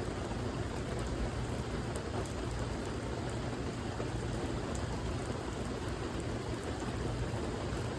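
Steady rainfall: an even hiss of rain with scattered drop ticks over a low rumble.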